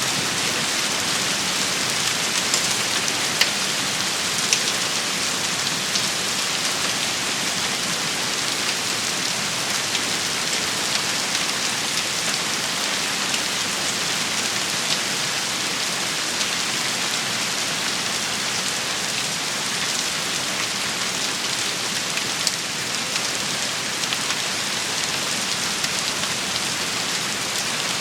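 Steady rain shower: a dense hiss of rainfall with scattered sharper drop ticks.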